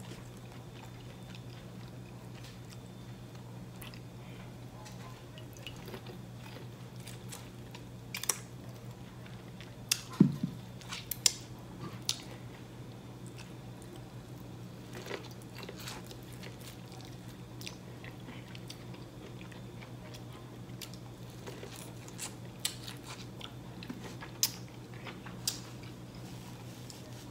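A person chewing and biting seafood-boil food, corn on the cob among it, with scattered short mouth clicks that are loudest about ten seconds in. A steady low hum runs underneath.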